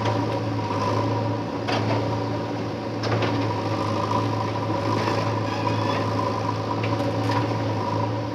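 JCB backhoe loader's diesel engine running steadily, with a few short knocks or clanks over it.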